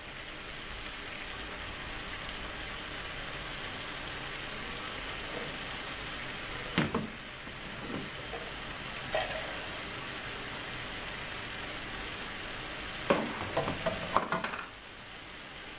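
A wok of vegetable stir-fry sizzling steadily on a gas hob, with a few short knocks. The knocks come about halfway through and again near the end.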